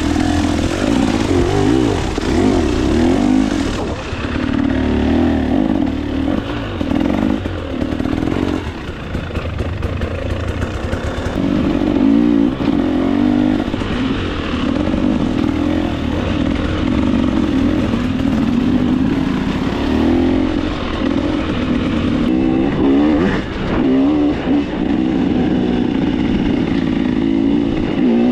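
2024 KTM 300 XC-W two-stroke single-cylinder dirt bike engine being ridden on trail, the throttle repeatedly opened and closed so the engine note keeps rising and falling.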